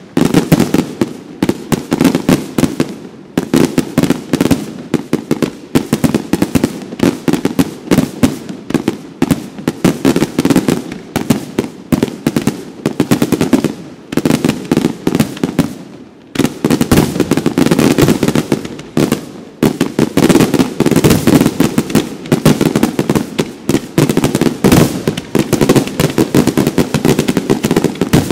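Itria Fireworks aerial fireworks display: a dense barrage of shell bursts and bangs, with a brief lull about halfway through before the bangs pick up again.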